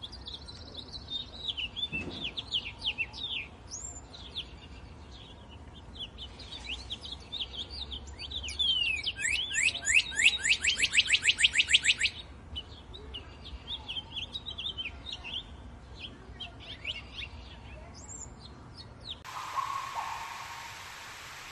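Wild birds singing and chirping, with one bird giving a loud, fast run of falling notes, about eight a second, for some three seconds in the middle. Near the end the birdsong gives way to a steady hiss.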